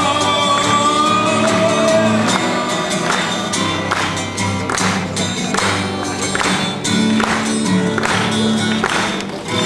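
Live band playing the instrumental close of a song: sustained chords and a held melody line, with regular percussive hits joining about three seconds in.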